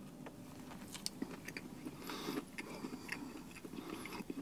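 A person biting into and chewing a sandwich of soft pancakes and a crispy McChicken patty, faint and close up, with many small clicks.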